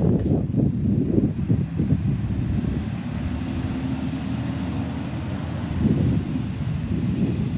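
Garbage truck running close by, a steady low engine rumble with a faint hum held for a couple of seconds midway.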